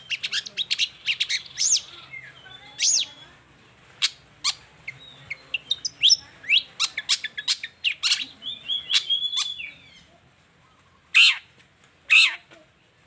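Long-tailed shrike (cendet) singing: a fast string of sharp chirps and slurred whistled notes, then a short pause and two loud harsh calls near the end.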